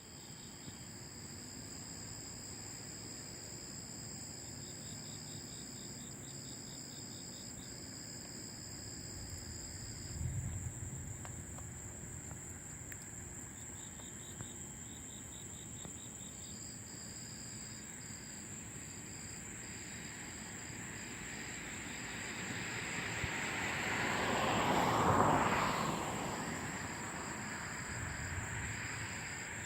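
Crickets and other night insects trilling steadily, with bursts of pulsed chirping that stop and start. A short low rumble comes about ten seconds in, and in the last third a passing vehicle's noise swells up and fades away, the loudest sound here.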